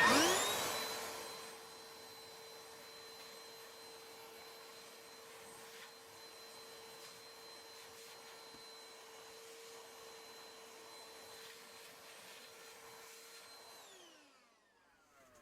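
Vacuum cleaner switched on, its motor whining up to speed, loud at first and then quieter, running steadily with a high whine, then switched off near the end and winding down to a stop.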